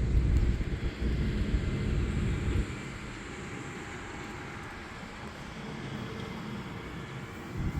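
Outdoor background noise: a low rumble for the first two and a half seconds that stops suddenly, then a quieter steady hiss.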